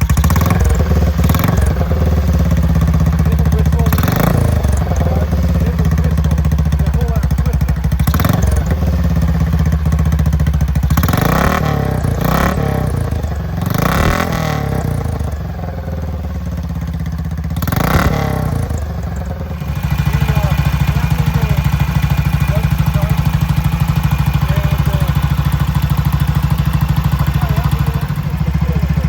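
BSA Gold Star DB34's 500 cc single-cylinder engine running, its throttle blipped several times with revs rising and falling. It then settles to a steady idle about two-thirds of the way through.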